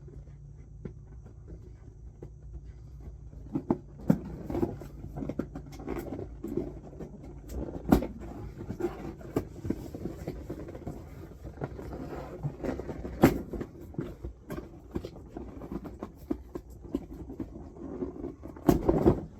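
Packaging being handled while unboxing a toy: rustling with scattered clicks and a few sharp knocks. A faint low hum underneath.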